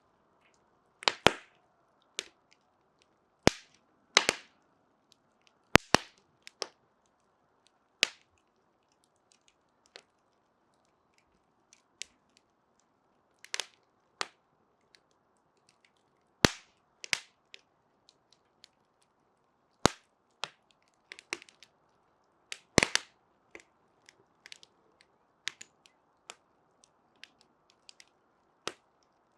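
Burning wood crackling: sharp, irregular pops every second or so, some in quick clusters, over a faint steady hiss.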